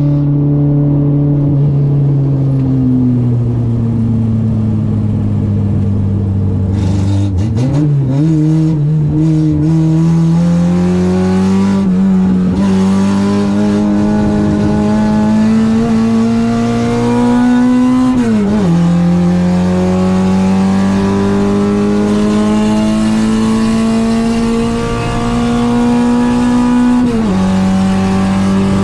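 Citroen AX's 8-valve four-cylinder engine on twin Weber 40 carburettors, driven hard on track. The revs fall away for a few seconds, then climb steadily, drop sharply at an upshift about two-thirds of the way in, climb again and drop at a second upshift near the end.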